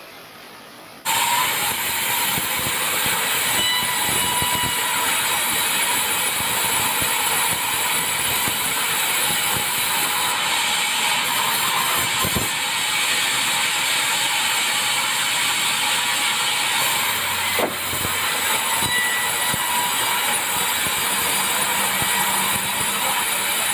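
Sawmill saw running and cutting through a tropical hardwood log: a loud, steady rushing noise that starts suddenly about a second in, with a few faint knocks.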